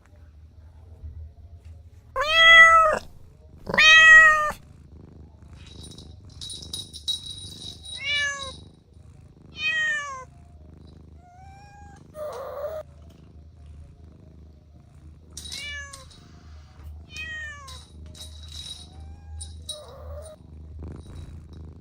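A cat meowing: two loud meows that rise and fall in pitch a couple of seconds in, then several shorter, softer mews that fall in pitch, spaced out over the rest, above a low steady hum.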